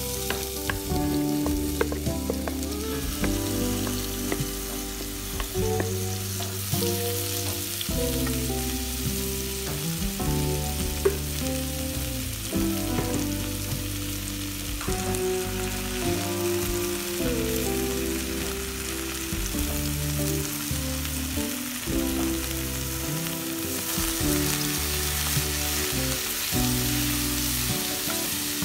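Sliced brown champignon mushrooms sizzling as they fry in hot oil in a stainless steel pot, with a steady hiss. A wooden spatula stirs them, scraping and clicking against the pot.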